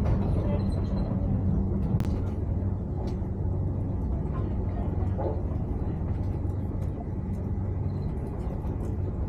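Steady rumble and low hum of a Deutsche Bahn ICE train running, heard from inside the passenger carriage, with a single sharp click about two seconds in.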